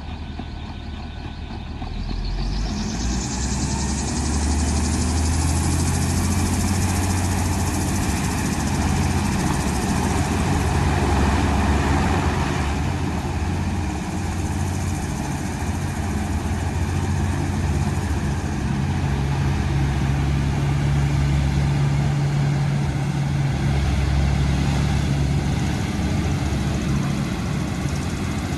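Passenger hovercraft running up its engines to leave. The low engine hum swells about two seconds in with a rising rush of air, then holds loud and steady.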